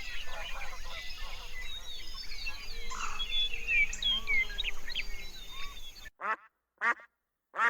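Many small birds chirping over a steady outdoor background, cut off abruptly about six seconds in. Then three short animal calls, each a fraction of a second long, separated by silence.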